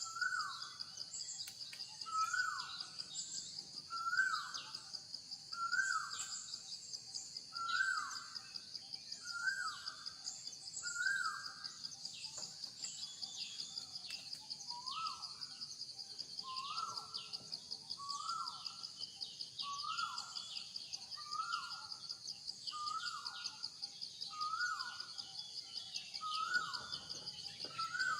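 A steady high insect drone, with a bird repeating a short call about every second and a half, pausing for a few seconds about halfway through.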